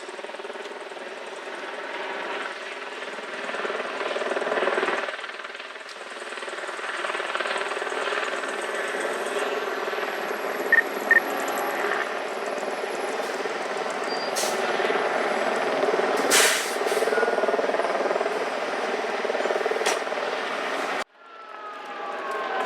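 Fire engine's diesel running steadily, with two short high beeps about halfway through and a few sharp hisses later on. Near the end the sound cuts out abruptly and a siren begins winding.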